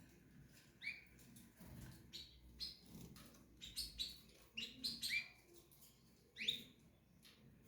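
Pet cage birds chirping: a dozen or so short, separate chirps at irregular intervals, the loudest about six and a half seconds in.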